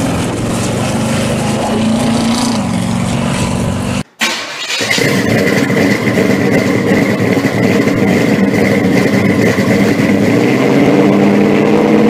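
Supercharged engine of a blown pro street Camaro running as the car drives past. About four seconds in it cuts off abruptly, and after a short gap another steady engine-like sound follows, with a steady high whine over it.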